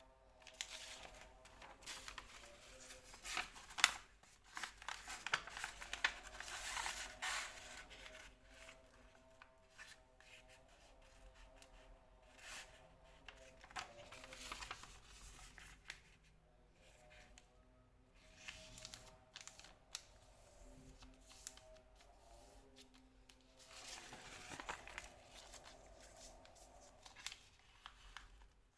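Sheet of paper being handled, folded and creased by hand: rustling, with sharp crease and crinkle sounds, busiest in the first few seconds and again near the end. Faint background music plays underneath.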